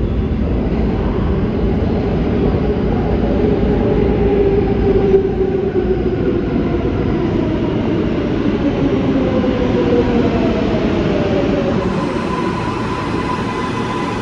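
New York City subway train on the L line running through the station, its wheels and motors rumbling loudly. Several whining motor tones fall steadily in pitch through the middle seconds, as a train slowing down makes.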